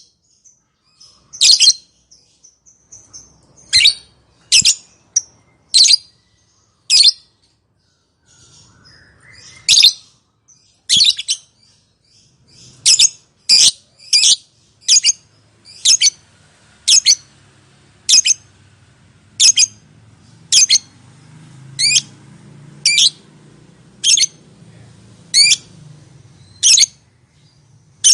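Lovebird giving short, sharp, high calls, repeated about once a second with a brief pause partway through.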